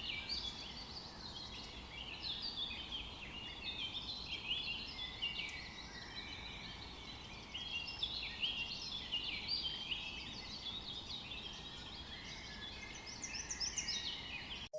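Many small birds chirping at once, a dense chorus of short, high, overlapping calls over faint background noise, cutting off suddenly at the end.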